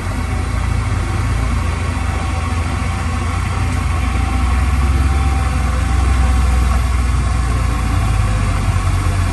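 Heavy construction machine's diesel engine running steadily with a deep low rumble, growing a little louder midway.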